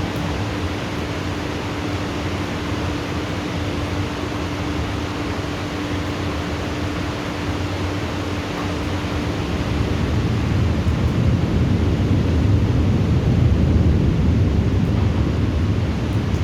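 Steady heavy rain hiss of a thunderstorm, with a low rumble of thunder that swells in the second half and is loudest near the end.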